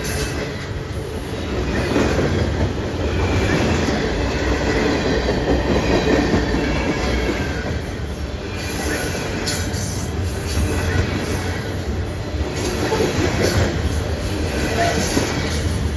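A train rolling past with a steady rumble and clatter of wheels on the rails, swelling and easing over the whole stretch.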